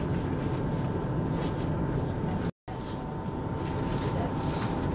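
Steady low rumble and hum of a passenger train carriage, with a thin steady tone running through it. The sound drops out completely for a split second about two and a half seconds in.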